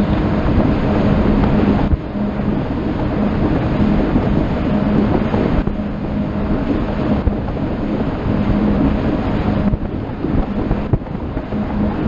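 Motorboat underway: the engine running at a steady pitch under heavy wind noise on the microphone and the rush of water against the hull.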